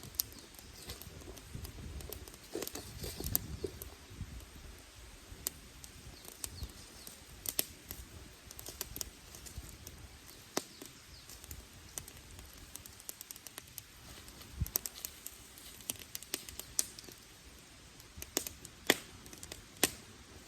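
Wood campfire crackling: irregular sharp pops and snaps of burning firewood, with one louder pop near the end.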